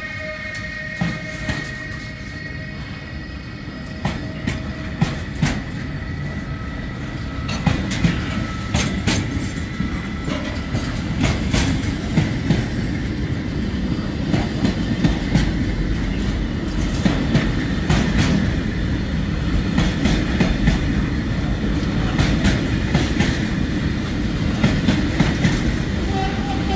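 Container freight train's flat wagons rolling past: a steady heavy rumble of steel wheels on rail with irregular sharp clicks and knocks as the wheels cross rail joints, growing louder about a quarter of the way in.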